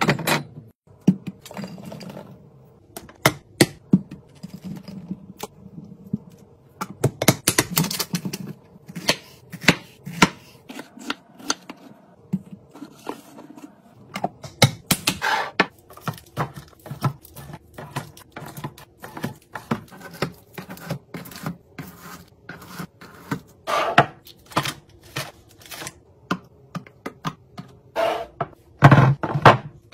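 Irregular clicks, taps and knocks of food containers, jars and packaging being handled and set down while a fridge and pantry are restocked, with some scraping and rustling between them.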